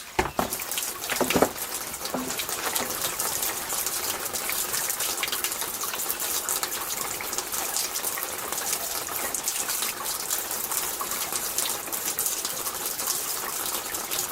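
Steady rush of running water, with two knocks in the first second and a half.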